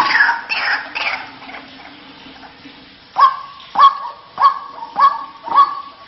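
White-breasted waterhen (ruak-ruak) calling, a lure call used to draw other waterhens in. A dense run of falling calls fades out within the first second. About three seconds in, harsh single croaking notes start, repeating evenly about every 0.6 s.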